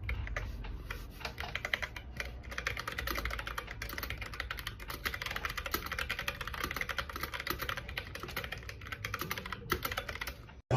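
Rapid, continuous light clicking, many small clicks a second, like keys being typed.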